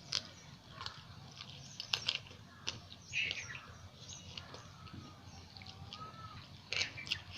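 Close-miked eating sounds: wet chewing, lip smacks and mouth clicks from someone eating spicy chicken curry with paratha, coming as irregular short smacks and squelches.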